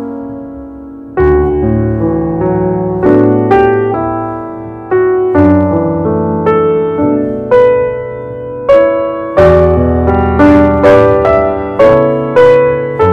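Background piano music, unhurried notes each struck and fading away, growing louder and busier in the second half.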